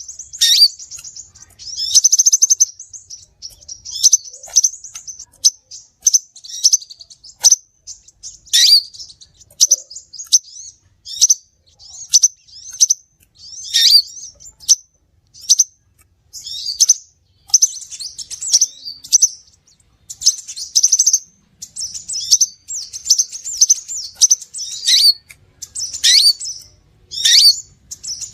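Crimson sunbird (sepah raja) calling: high, sharp chirps and short buzzy trills in quick bursts about once a second, some notes sweeping sharply down in pitch. This is a lure recording for attracting the bird.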